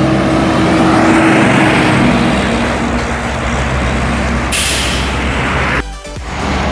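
Tractor-trailer engine running steadily, with a sharp hiss of air from the air brakes about four and a half seconds in, lasting about a second.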